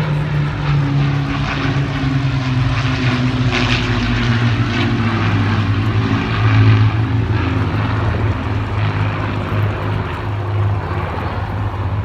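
Piston-engined propeller aircraft flying past, its steady engine drone falling in pitch over the first few seconds and then holding.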